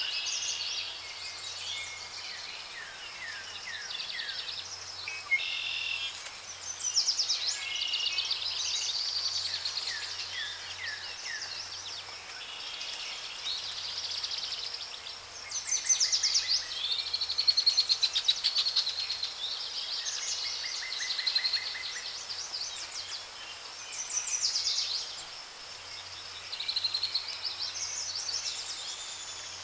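Rainforest ambience of many birds calling at once: overlapping chirps, whistles and fast rattling trills, some louder calls standing out now and then, over a faint steady low hum.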